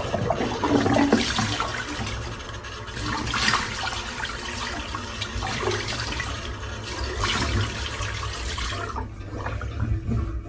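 Tap water running into a sink with uneven surges of splashing, stopping about nine seconds in.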